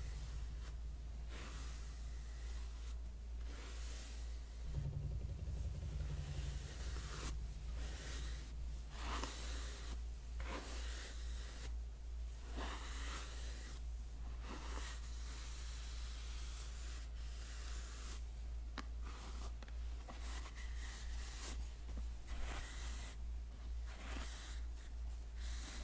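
Hairbrush bristles making soft, scratchy swishing strokes, irregular and roughly one a second.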